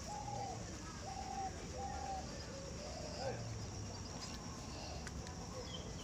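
A bird calling, a short arched note repeated about once a second over steady background noise.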